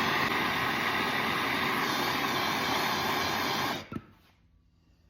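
Handheld gas torch burning with a steady hiss, heating solder to join a copper brand to stainless steel; it shuts off abruptly nearly four seconds in.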